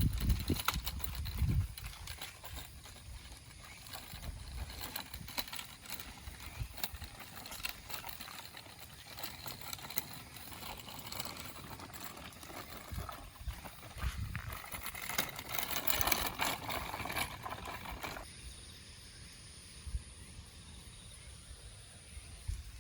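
Outdoor ambience with wind gusting on the microphone at the start, then faint rustling and light scuffing knocks. The sound changes abruptly and goes quieter near the end.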